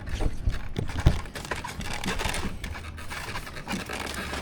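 Small plastic model-plane parts being handled on a table: a sharp knock about a second in, then rustling and scraping of parts and packaging.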